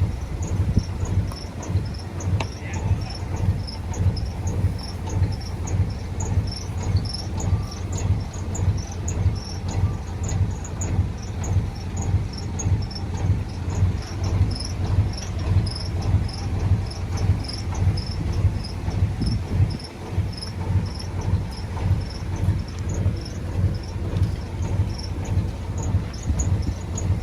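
Diesel engine of a Komatsu D20P bulldozer running, a steady low rumble that pulses rhythmically. Insects keep up rapid, repeated high chirps throughout.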